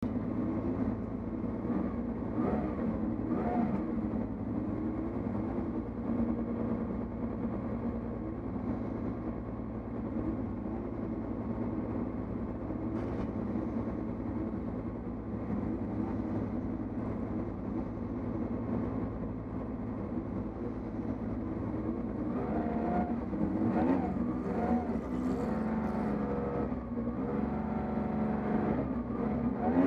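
1967 Porsche 911S race car's air-cooled flat-six engine, heard from inside the cabin, idling steadily. From about three-quarters of the way through, it is revved and the pitch rises and falls as the car pulls away in a low gear.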